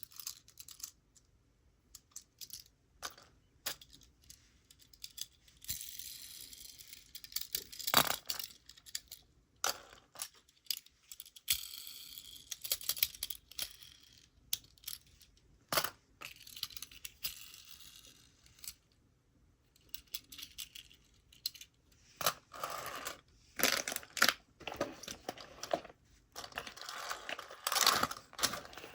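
Close handling of Tomica die-cast mini cars and their packaging: scattered sharp clicks and taps mixed with spells of rustling and tearing, busiest over the last several seconds.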